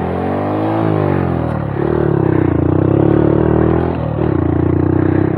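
Honda Monkey 125's single-cylinder four-stroke engine under throttle on a rough trail: the pitch rises and falls in the first second or so, then holds steadier and higher, with a brief dip about four seconds in.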